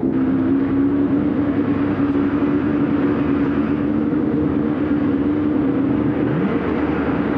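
A motor vehicle's engine running at a steady, unchanging pitch, with a short rising tone about six seconds in.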